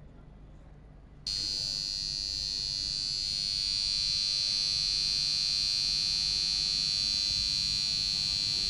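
A continuous high-pitched electronic buzzer tone from an HDPE electrofusion welding unit, switching on suddenly about a second in and holding steady.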